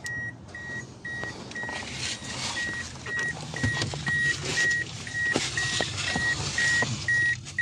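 Toyota Corolla's dashboard warning chime beeping in an even, steady pattern, about two and a half short high beeps a second, as when a door is open with the key in the ignition. Rustling and scattered clicks of someone moving about in the cabin run underneath.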